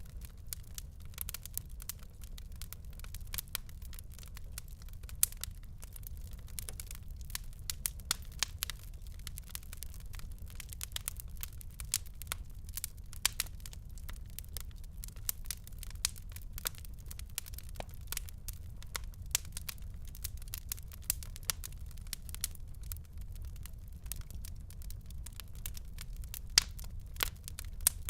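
Fire burning in a fireplace, crackling with frequent sharp pops and snaps over a low steady rumble.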